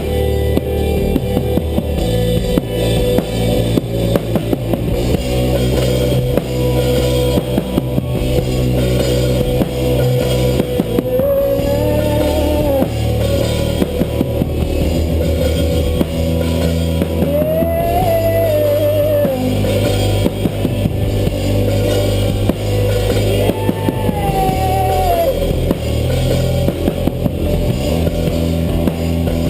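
Rock band playing an instrumental passage on drum kit, bass and guitars, with a high lead line that bends up and back down three times.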